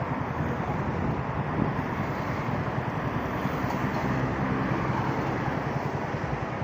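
A 125 cc motorcycle engine running steadily at low speed in heavy traffic, with some wind noise on the microphone.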